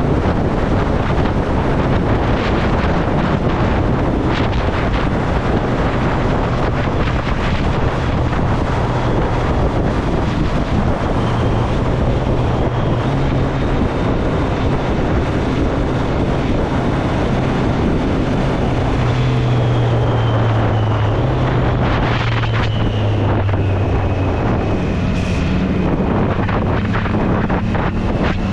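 Triumph Street Triple's three-cylinder engine running under way, its note shifting up and down with throttle, with heavy wind noise buffeting the microphone.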